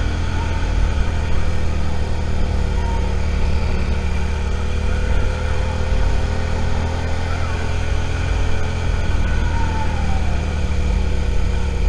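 Suzuki SV650's V-twin engine running steadily, with no revving, heard from the rider's own bike.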